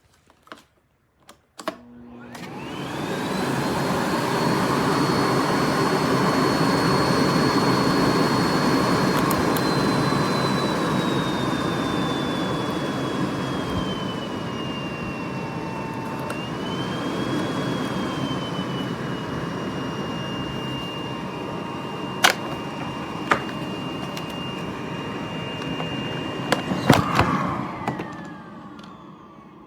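Miele Blizzard CX1 bagless canister vacuum switched on: its motor spins up with a rising whine, runs steadily while the whine slowly drops in pitch and wavers, and winds down with a falling whine near the end. A few sharp clicks and knocks come before the start-up and during the run.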